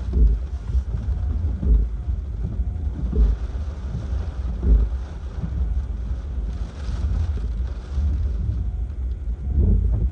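Hurricane wind buffeting the microphone: a deep, steady rumble that surges in gusts every second or two.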